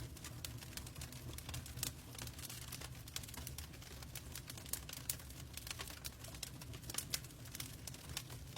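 Wood fire crackling in a fireplace, with frequent irregular pops and snaps over a steady low rumble, and a faint hiss of rain.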